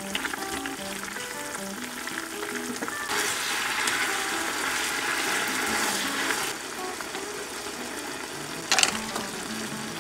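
Food sizzling in a hot pan, the sizzle turning louder for a few seconds about three seconds in and then easing back, with a single sharp knock near the end. Background music with a light melody plays throughout.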